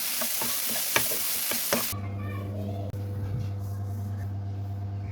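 Hot oil sizzling loudly as kachuri fry, with a few sharp clicks of a utensil in the pan. The sizzle cuts off abruptly about two seconds in, leaving a steady low hum.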